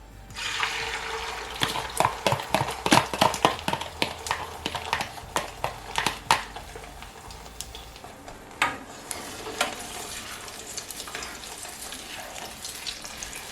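Eggs frying in hot oil in a pan, sizzling from just after the start. A utensil clicks and scrapes against the pan many times over the first half as the eggs are stirred, then the sizzle carries on with only a few knocks.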